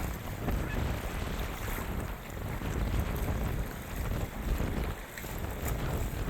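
Wind buffeting the microphone in uneven gusts, a rumbling rush of noise.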